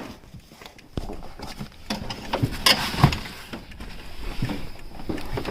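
Scattered knocks, scrapes and shuffling of a person climbing into the cabin of a wrecked car, with a few sharper knocks about a third and halfway in.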